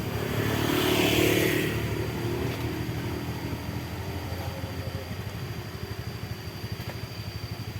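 A vehicle engine running with a steady, pulsing low throb. About a second in, a louder rushing swell rises and fades away by about two seconds in.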